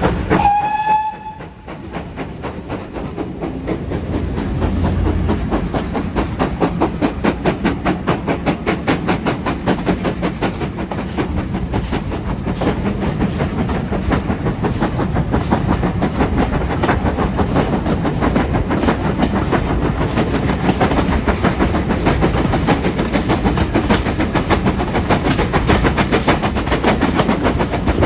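Steam whistle of GWR 5600 class 0-6-2 tank engine 5619, sounded once briefly, followed by the locomotive's rapid, rhythmic exhaust beats as it works steadily along.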